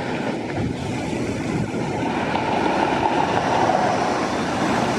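Steady rushing rumble of a passing vehicle, growing louder about two seconds in.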